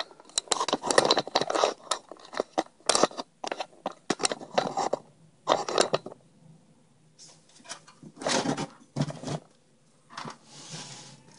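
Irregular clicks, taps and short scrapes of hard metal and plastic PC parts being handled in and around a computer case, busy for the first six seconds and sparser after.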